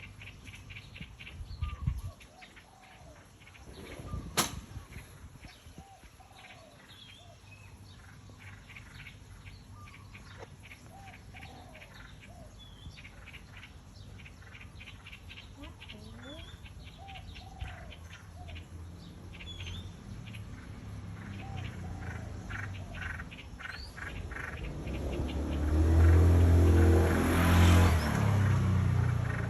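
Small birds chirping: quick, repeated high chirps with some lower, sliding calls in between. A sharp click comes about four seconds in, and a loud low rumble builds up near the end.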